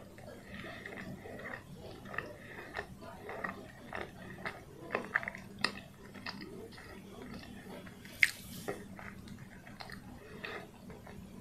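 Close-miked chewing of a soft steamed peanut bun: irregular wet mouth clicks and smacks, with one sharper, louder click about eight seconds in.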